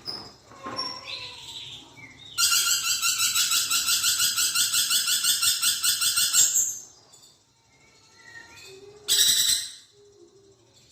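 Lorikeet calling. A loud, rapidly pulsing chatter lasts about four seconds, and a short loud burst comes near the end, with fainter chirps in between.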